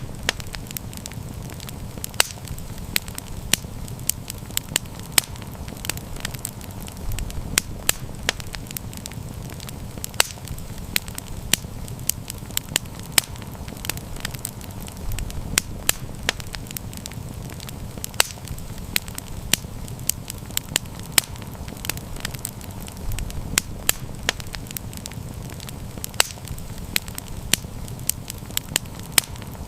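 Wood campfire crackling and popping, with frequent sharp irregular snaps over a low steady rumble of the flames.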